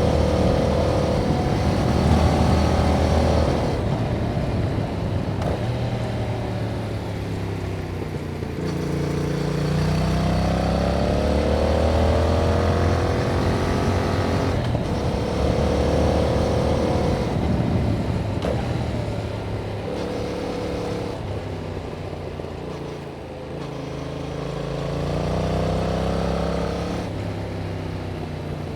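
Yamaha MT-07's parallel-twin engine through its stock exhaust, pulling hard. The engine note climbs in pitch and falls back several times as the bike revs up and shifts or rolls off.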